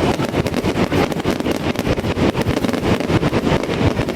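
Fireworks going off in quick succession, a dense run of bangs and crackles over a low rumble.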